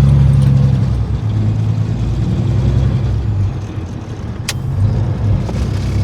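Truck engine pulling up a snowy hill, its note easing off about a second in, with a single sharp click about four and a half seconds in.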